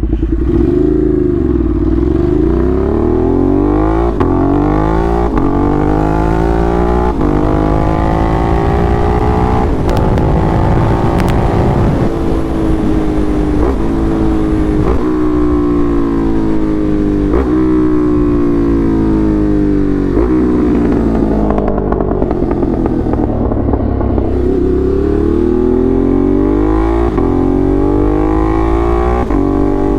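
Ducati Monster's 1200 cc V-twin engine through an SC Project aftermarket exhaust, heard from the rider's seat while riding. The engine's pitch climbs and falls again and again as the throttle is opened and eased, with brief breaks every second or two.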